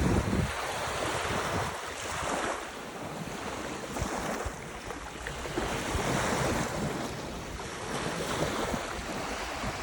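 Ocean surf washing in, the noise swelling and fading every couple of seconds, with wind rumbling on the microphone.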